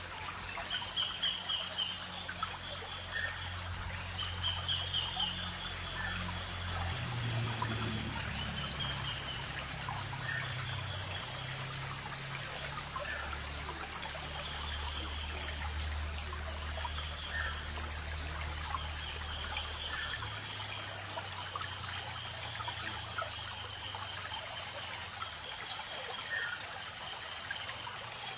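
Small forest stream trickling and babbling steadily over stones, with birds giving short, repeated chirping calls throughout.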